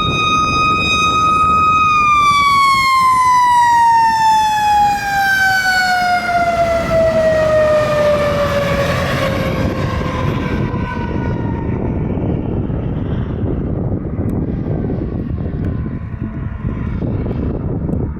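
A fire truck's siren holds one steady high pitch, then winds down in a long, slow fall over about eight seconds, the way a mechanical coaster siren spins down. Under it is the steady rumble of the heavy truck's engine and tyres.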